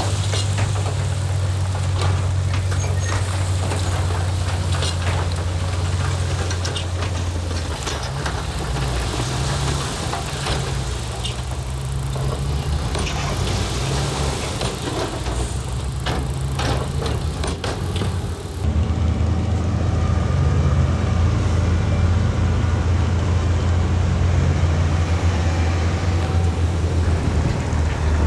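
Diesel engine of heavy earthmoving machinery running steadily, with scattered sharp knocks and clatter over the first two-thirds. About two-thirds in, the sound changes abruptly to a steadier, duller engine note.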